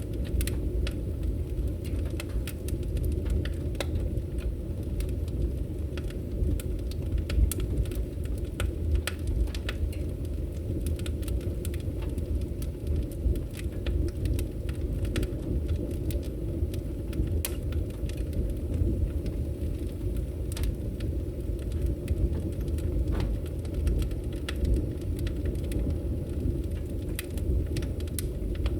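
Wood fire burning in a fireplace: a steady low rumble of flames with many small crackles and pops scattered throughout.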